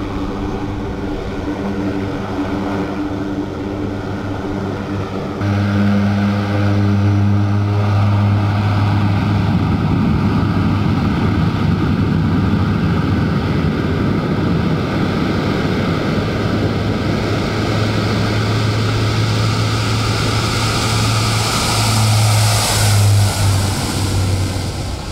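A large engine running steadily with a deep, even drone, getting louder about five seconds in, with a rushing noise building up near the end.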